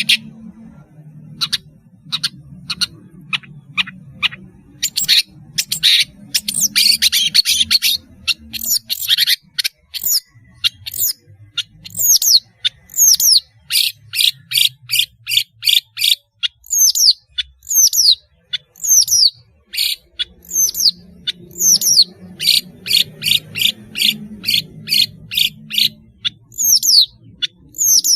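Long-tailed shrike (pentet) singing loudly: a dense run of rapid, chattering notes, then, from about ten seconds in, a long series of sharp, repeated down-slurred calls about two a second.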